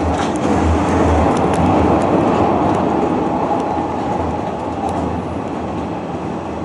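Hanshin Railway rapid express train running, heard from inside the passenger car: a steady rumble of wheels on rail with scattered light clicks, easing slightly after the first couple of seconds.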